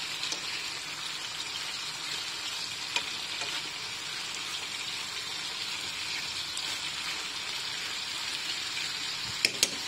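Chicken breast pieces sizzling in hot oil in a frying pan, a steady hiss, as a wooden spatula turns them. A couple of sharp clicks near the end.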